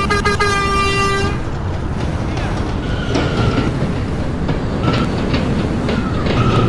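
An R179 subway train sounds its horn, ending about a second in, then rolls into the station with a steady rumble. Its wheels click over the rail joints, with short high squeals every second or two.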